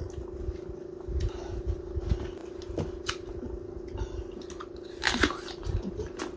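Eating noises: scattered crunches and bites of fruit, over a steady hum, with a louder burst of crunching about five seconds in.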